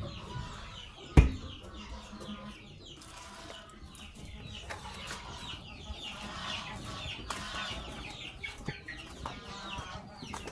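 Chickens clucking and calling, many short falling calls overlapping, with a single sharp knock about a second in.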